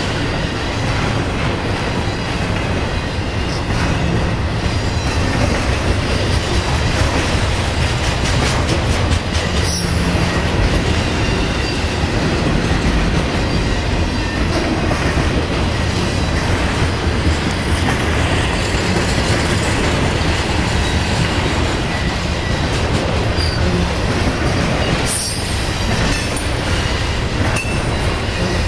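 BNSF intermodal freight train rolling steadily past, its wheels running on the rails with a continuous heavy rumble and at times a faint high wheel squeal.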